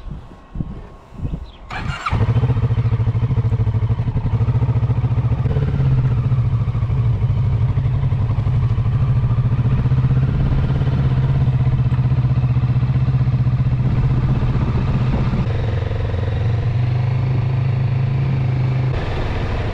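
Kawasaki Z650RS parallel-twin motorcycle engine started up, catching about two seconds in after a few uneven turns, then idling steadily.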